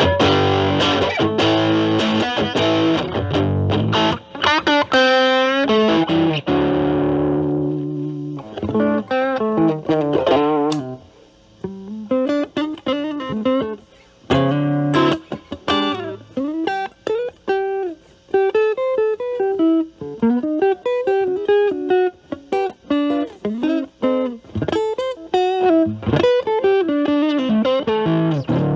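Electric guitar (a Stratocaster with Alnico single coils) played through an Ibanez Super Metal mini distortion pedal at a low drive setting into a Marshall Valvestate amp's clean channel, giving a cleaned-up, lightly driven tone. A few strummed chords ring out and fade, then single-note picked lines with bends follow.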